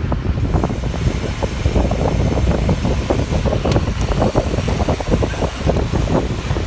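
Wind buffeting the microphone while riding a bicycle at speed: a steady low rumble broken by many short gusty spikes, mixed with road noise.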